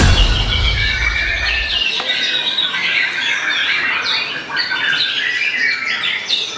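White-rumped shama singing a rapid stream of loud, varied whistles and sharp chirps. The low end of a music track cuts off about two seconds in.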